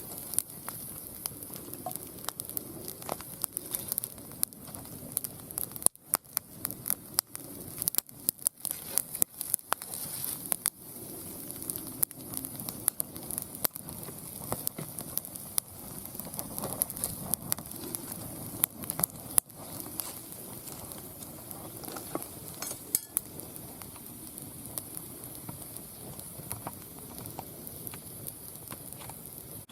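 Firewood burning in a round fire pit: steady crackling with many sharp pops over a high hiss, the pops coming thickest in the first third and thinning out later.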